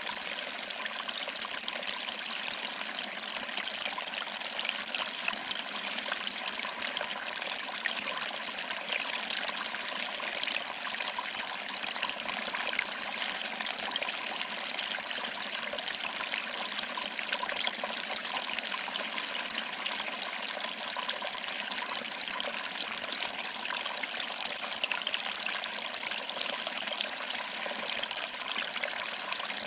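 Small waterfall: water trickling over rocks and splashing into a pool, a steady, even wash of sound with no low rumble.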